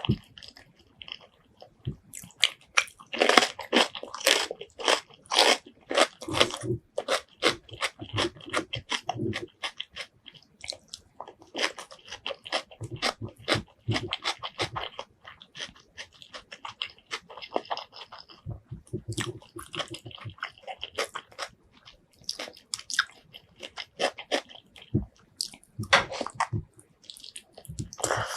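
Close-miked eating sounds: chewing and biting into spicy pork leg curry with rice, a run of wet, crunchy clicks and smacks in irregular bursts.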